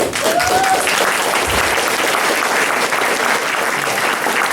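A congregation applauding, starting abruptly and holding steady, with one voice rising briefly in a short call about half a second in.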